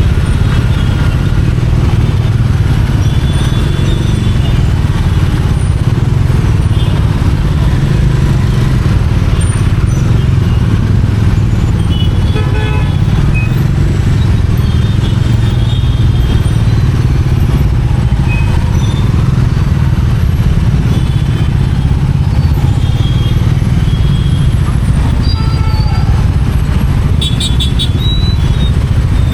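Bajaj Dominar 400's single-cylinder engine and exhaust running steadily under way in city traffic. Short horn toots sound about twelve seconds in and again near the end.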